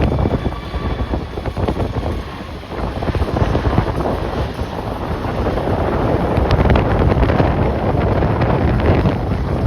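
Strong gusty wind buffeting the microphone, a loud low rumble that swells and dips with the gusts.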